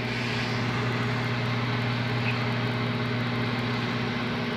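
Microwave oven running with a steady electrical hum and buzz while it heats a grape.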